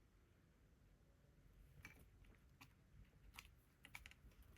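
Near silence, broken by a few faint, short taps and rustles of paper and cardstock being handled.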